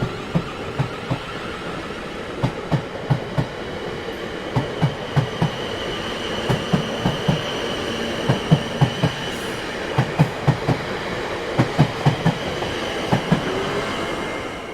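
Train rolling past over rail joints: steady rolling noise with the wheels clacking in quick groups of two to four, about once a second. A faint high wheel squeal rises over it midway.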